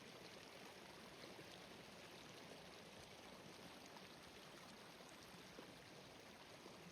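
Faint, steady rain: an even hiss with many small drop ticks.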